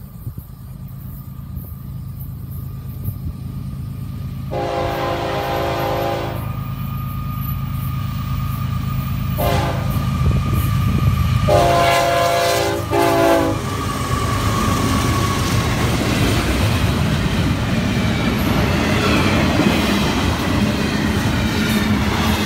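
Florida East Coast Railway freight train led by GE ES44C4 diesel locomotives approaching and passing, its rumble growing louder. The multi-note horn sounds three times: a long blast about four seconds in, a short one, then a longer one. After that the locomotives go by and the double-stacked container cars clatter past.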